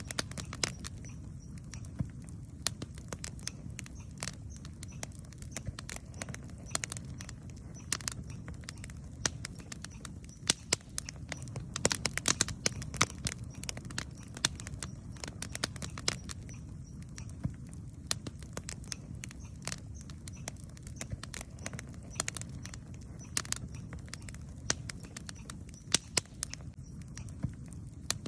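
Campfire crackling, with frequent sharp pops and snaps over a low steady rumble; the pops come thickest around the middle.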